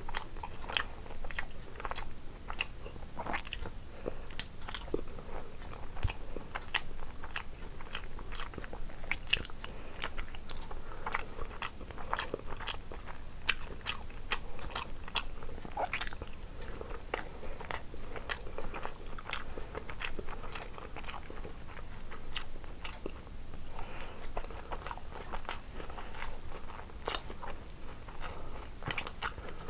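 A person biting and chewing crunchy food, a steady run of irregular crunches and crackling clicks.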